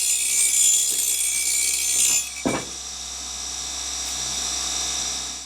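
Bench grinder wheel grinding down the neck of an end mill, a high hissing grind with a steady whine. About two seconds in the grinding stops, a single knock follows, and the grinder keeps spinning more quietly until the sound cuts off.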